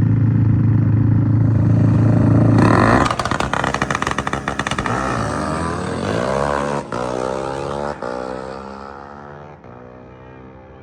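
Race motorcycle engine held at high revs, then launching about three seconds in and accelerating hard. Its pitch climbs and drops through gear changes as it pulls away, and the sound steadily fades with distance.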